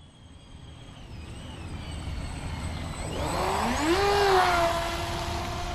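Small RC speedboat's brushless electric motor whining across the water. It is faint at first, then the pitch rises sharply about three seconds in as it throttles up, with a rush of water spray, and settles into a steady high whine.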